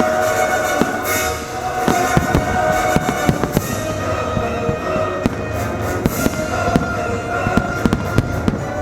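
Aerial fireworks going off in rapid succession, many sharp bangs and crackles that come thicker in the second half, over Christmas music playing throughout.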